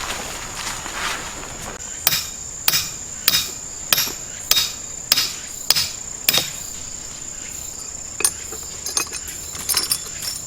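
A hammer striking eight times at an even pace, about one and a half blows a second, then a few lighter knocks near the end. Grass insects chirr steadily in the background.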